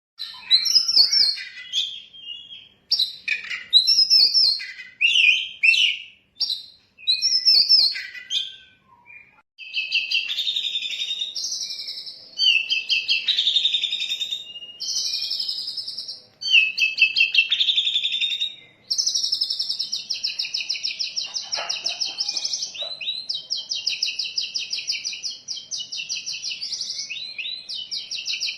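Oriental magpie-robin (kacer) singing a varied, mimicry-rich song. It starts with short, separate whistled phrases with pauses between them. About ten seconds in it becomes a continuous run of song, and near twenty seconds it turns into a fast, rapidly repeated trill.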